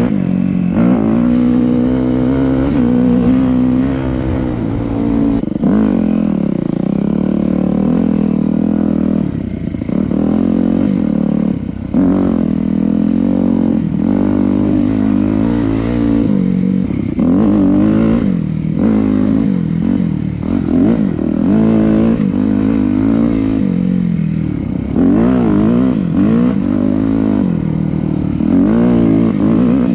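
Yamaha YZ250F's four-stroke single-cylinder dirt bike engine under way, its pitch climbing and falling again and again as the throttle is worked, with short drops where the throttle is closed, around ten and twelve seconds in.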